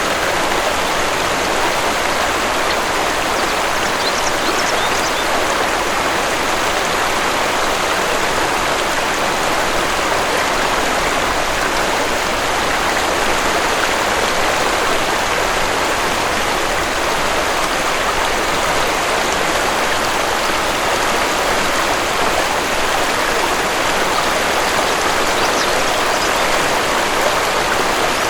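Waterfall: a steady, even rush of falling water. Faint high bird chirps come through a few seconds in and again near the end.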